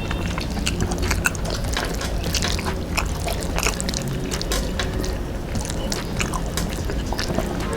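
Close-miked eating sounds: chewing and wet mouth clicks and smacks, irregular and frequent.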